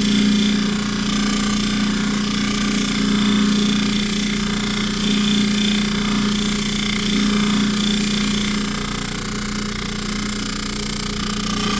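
Low-speed variable jewelry polishing buffer motor running with a steady hum while its buffing wheel polishes a necklace chain, the loudness swelling and easing slightly as the chain is turned against the wheel.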